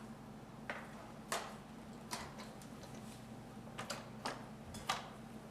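Light plastic clicks and taps, about eight of them at irregular intervals, as a Roomba robot vacuum is handled and set back down, over a faint steady low hum.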